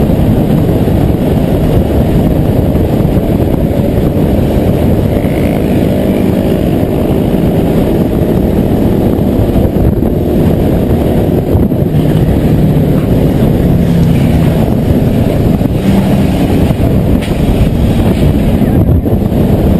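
Car on the move: a steady, loud rumble of road and engine noise with no distinct impacts.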